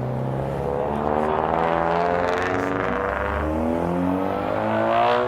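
A car engine revving through its exhaust, its pitch sliding down and then climbing again near the end.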